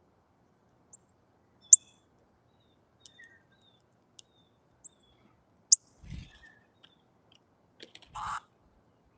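A baby bird giving short, high chirps and clicks, scattered and irregular, two of them sharper and louder. Two duller bumps come about six and eight seconds in.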